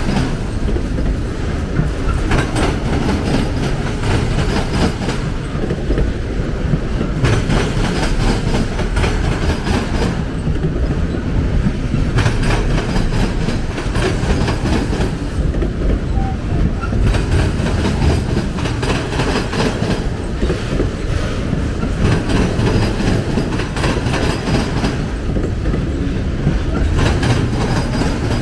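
Enclosed auto rack freight cars rolling slowly past: a steady rumble of steel wheels on rail, broken by repeated knocks as the wheels cross rail joints.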